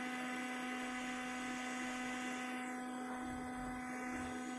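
Steady electrical hum made of several fixed tones over a light airy hiss, from a hot-air rework station blowing while glue is cleared from a phone logic board.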